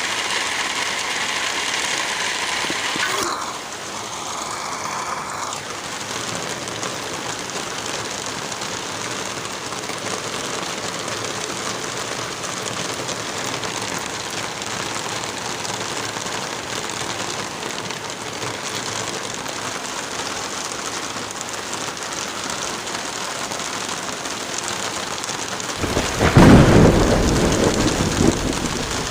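Steady rain, with one long thunder rumble that breaks out loudly near the end and fades over a couple of seconds.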